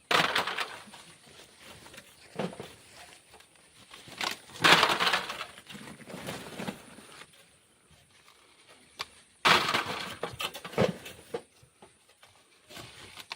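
Black sand and grit being dug and tossed by hand: three loud gritty crunching pours a few seconds apart, with smaller knocks in between.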